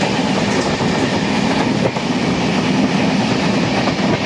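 Indian Railways AC express train running at speed, heard at the open coach doorway: a loud, steady rushing noise of wheels on rails and moving air, with occasional faint knocks.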